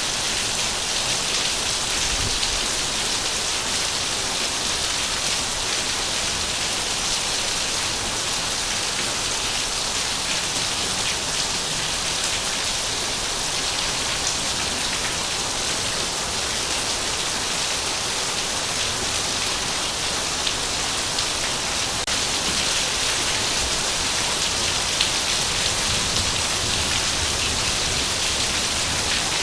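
Heavy rain falling steadily, a dense even hiss of drops on surfaces with no break.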